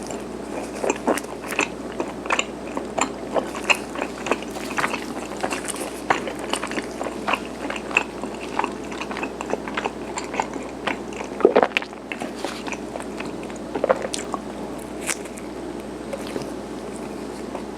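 Close-miked chewing of garaetteok, chewy Korean rice-cake sticks: wet mouth clicks and smacks repeating irregularly, with a couple of louder ones in the second half.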